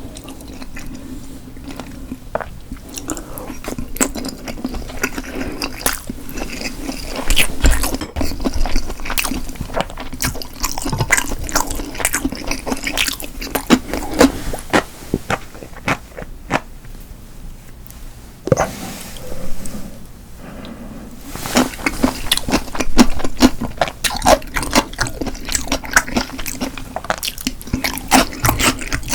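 Close-miked eating sounds: wet chewing with liquid noises and many small clicks, pausing briefly twice.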